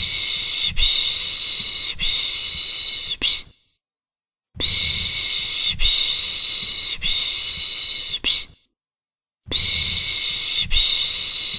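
A person making the soothing 'pış pış' shushing sound used to settle a baby: a long hissing 'shh' broken into about three pulses a little over a second apart, then about a second of silence before it starts again, twice in a row.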